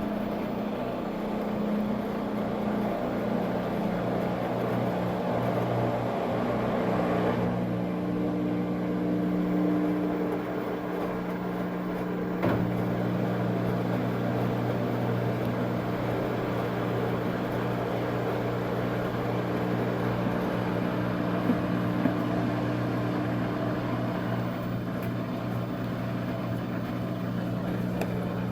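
Washing machine draining, its drain pump running with a steady hum. A rushing noise drops away about seven seconds in, and there is a click about twelve seconds in.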